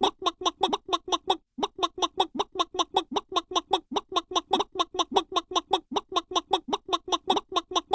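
Chicken clucking sound effect: a rapid, even run of short clucks, about five a second, broken by a brief gap about one and a half seconds in.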